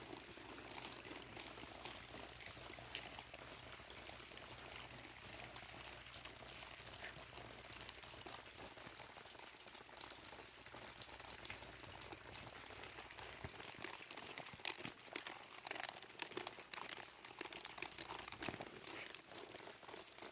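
Steady rain falling: a faint hiss with many scattered drips ticking, and the drips come more often in the latter part.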